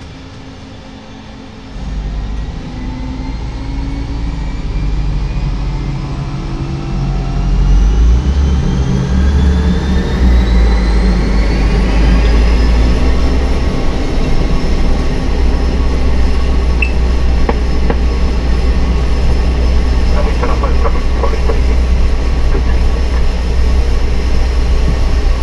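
Cessna 208 Caravan's PT6A turboprop brought up to high power, typical of setting takeoff power. A turbine whine rises for about ten seconds and then holds steady over a loud propeller drone. A few light knocks come late on.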